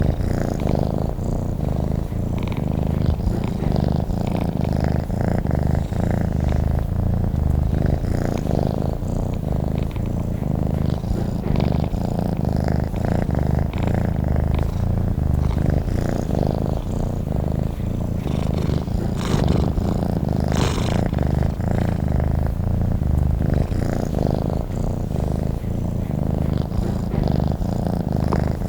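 Domestic cat purring steadily, a continuous low rumble with an even fine pulse.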